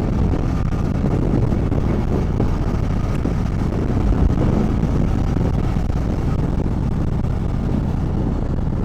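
Motorcycle running steadily, a continuous engine and road rumble with no distinct events.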